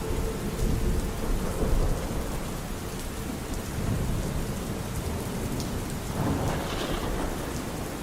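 Steady rain with thunder rumbling low underneath.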